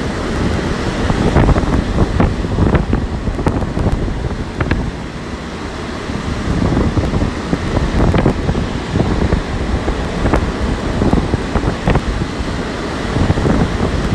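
Heavy storm surf crashing on the shore while strong gusting wind buffets the microphone, giving a loud, uneven rumble.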